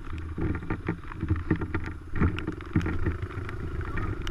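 Dirt bike engine idling with a steady low hum, while irregular clicks and knocks sound over it.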